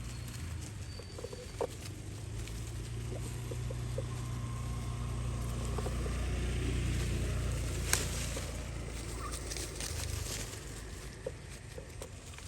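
Short, scattered animal calls and clicks over a low rumble that swells and then fades, with one sharp click about two-thirds of the way in.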